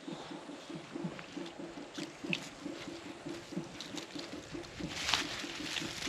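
A low-pitched animal call repeating steadily, about three times a second, with a brief noisy rustle about five seconds in.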